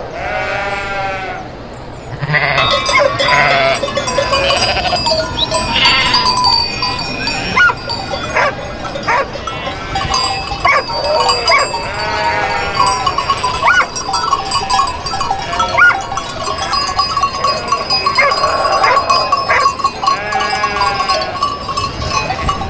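A flock of sheep bleating, many calls overlapping throughout, with bells on the animals ringing steadily underneath.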